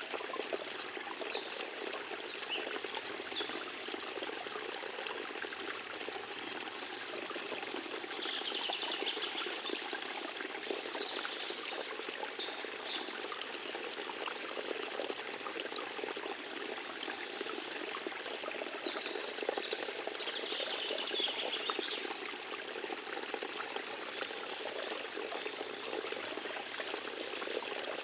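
Forest stream trickling and gurgling steadily over its bed.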